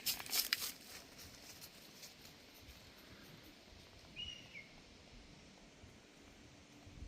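Quiet woodland ambience. A few sharp rustling clicks open it, and a single short bird chirp comes about four seconds in.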